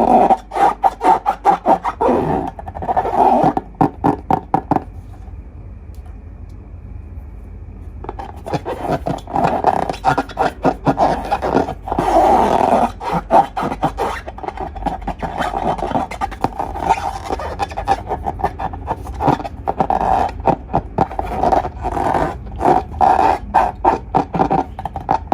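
Slime being squished and worked by hand: runs of rapid wet clicks and pops, with a quieter pause about five seconds in before the squishing starts again.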